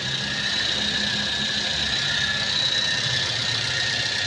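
Toyota Avanza G 2007's 1.3-litre VVT-i four-cylinder engine idling steadily, with a steady high whine over the engine note; its running sound is smooth.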